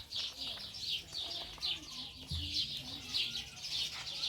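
Small birds chirping continuously in a dense, rapid chatter of short high notes.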